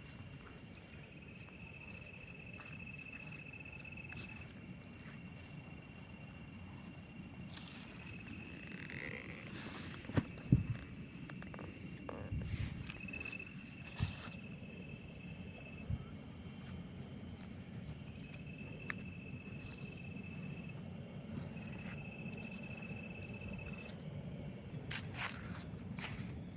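Insects, crickets among them, trilling steadily in high pulsing tones, with a thinner held tone coming and going every few seconds and a few short knocks about halfway through.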